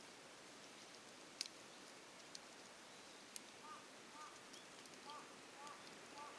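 Faint campfire: a few sharp pops and crackles from burning wood in the first half. In the second half a bird gives about five short chirps.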